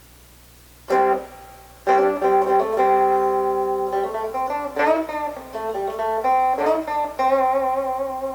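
Fender Stratocaster electric guitar played clean on the bridge pickup with its tone control rolled down to about 1, giving a really dark, warm tone. A riff of ringing chords and notes starts about a second in, some notes wavering with vibrato, over a faint steady amp hum.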